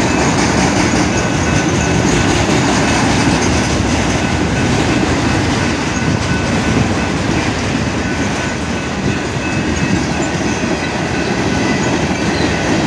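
Freight train cars rolling past: a steady, loud rumble and clatter of steel wheels on rail.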